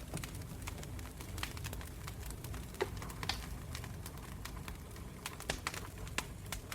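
Wood campfire burning, with irregular sharp crackles and pops over a steady low rumble of the flames.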